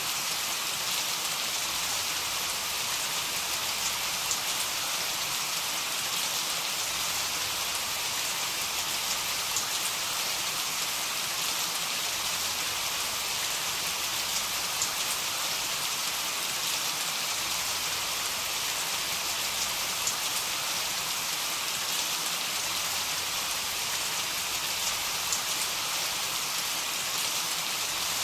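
Heavy rain falling steadily: a dense, even hiss with scattered sharper ticks of individual drops striking a surface.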